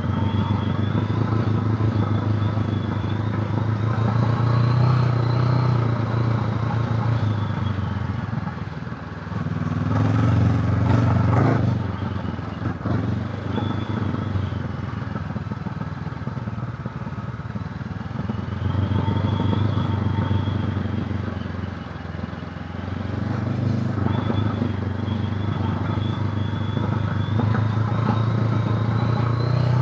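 Honda CB500X's parallel-twin engine running under way, pulling hard and easing off several times as the revs rise and fall, with a few brief knocks about a third of the way in.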